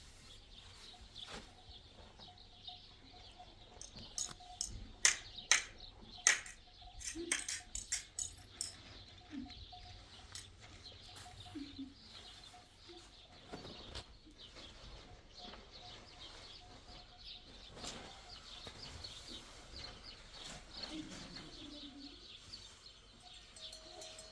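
Birds chirping steadily, with a quick run of sharp clinks or knocks about four to seven seconds in.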